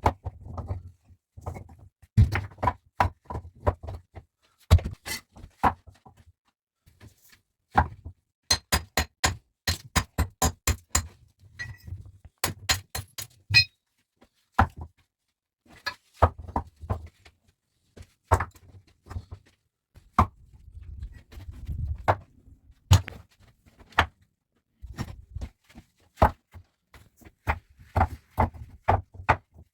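A long series of knocks and thuds, irregular at first, then quick runs of several sharp knocks a second in the middle.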